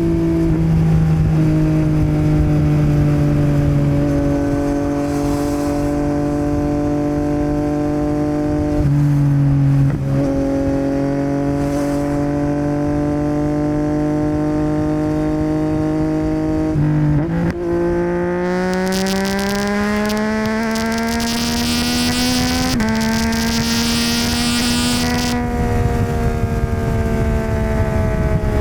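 Yamaha MT-09's 890 cc three-cylinder engine through a Yoshimura R77 exhaust under way, its note sinking slowly with brief breaks where gears change. From about two-thirds of the way in, the pitch climbs steadily as the bike accelerates, with a loud hiss over it for several seconds.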